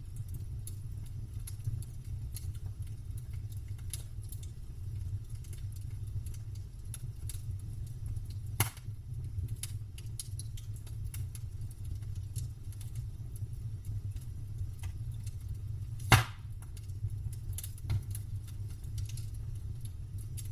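Campfire crackling: scattered small clicks and two sharp wood pops, one about nine seconds in and a louder one about sixteen seconds in, over a steady low rumble.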